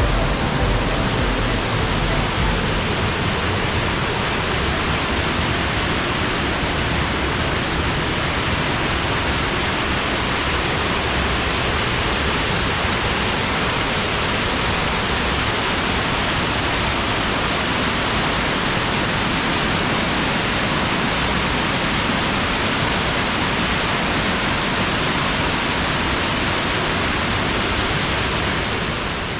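Steady rush of fast-flowing water, a waterfall or fast creek heard close, that fades out at the very end.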